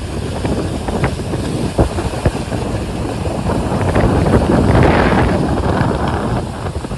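Strong gale-force wind buffeting the microphone over heavy surf, a continuous low rumbling rush. About four seconds in it swells louder and brighter as a wave surges in, then eases near the end.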